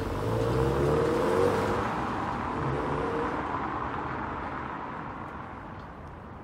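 Subaru WRX STI's EJ20 turbocharged flat-four accelerating away, rising in pitch, dropping at a gear change about two seconds in, then pulling again as the car fades into the distance.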